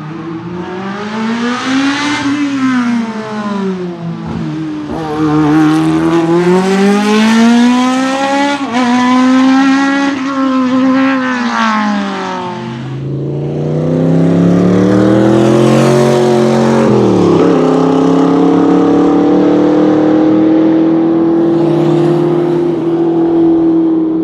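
Race car engine revving hard. Its pitch swings up and down in several sweeps, then it holds a long, loud pull with slowly rising pitch, broken briefly once partway through as by a gear change.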